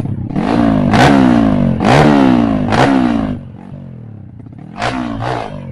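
Trail motorcycle engine revved hard in repeated bursts, its pitch climbing and falling about once a second. About three and a half seconds in it drops to a lower, quieter run, then gives two short revs near the end.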